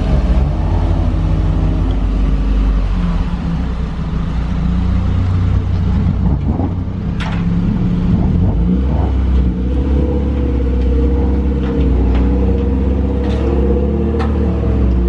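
A car engine running at fairly steady revs, with a few sharp clicks over it.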